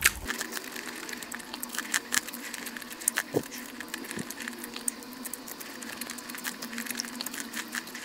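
Corn on the cob being bitten and chewed close to the microphone: a steady run of small crisp clicks and pops from the kernels, with a few louder bites.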